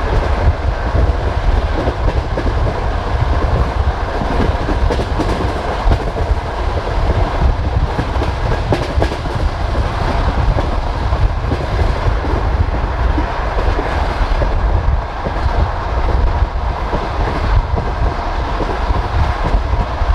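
Passenger train carriage running at speed: a steady rumble from the wheels and track with irregular clicks and clatter of the wheels over rail joints, heard at the carriage window.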